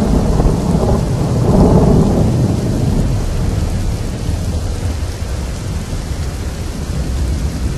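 Heavy rain with a low, rolling thunder rumble that swells about a second and a half in and then slowly fades.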